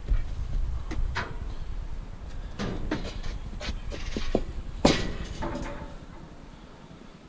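Pieces of scrap metal being handled, clanking and knocking at irregular intervals, the loudest knock about five seconds in. A low rumble underneath dies away after about six seconds.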